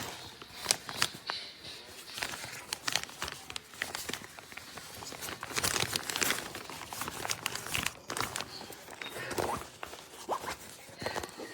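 Fabric rustling and crinkling from a soft insulated cooler backpack being handled, with scattered clicks and scrapes.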